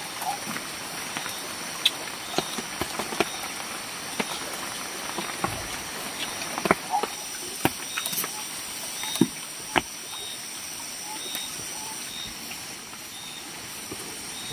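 Scattered small clicks and taps of someone eating a meal, over a steady hiss with a high insect drone.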